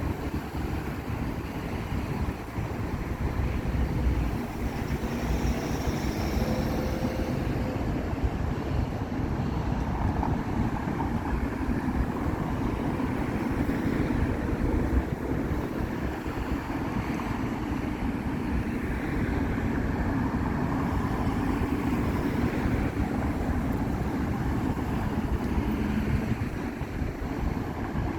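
Steady noise of freeway traffic passing by.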